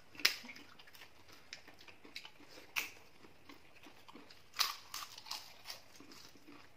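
People eating by hand, chewing and biting, with scattered short clicks and a few louder crunches: about a quarter second in, near three seconds, and around four and a half seconds.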